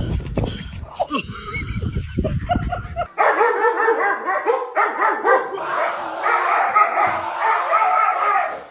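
Low rumbling and thumps for about three seconds, then a dog barking and yipping in a rapid run of short, high calls.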